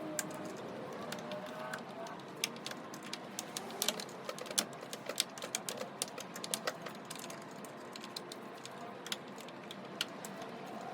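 Irregular light clicks and taps in quick, uneven runs over a faint steady background, busiest in the middle.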